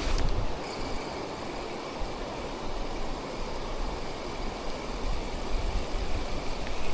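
Steady rushing of heavy rain and weir water, with gusts of wind buffeting the microphone as an uneven low rumble.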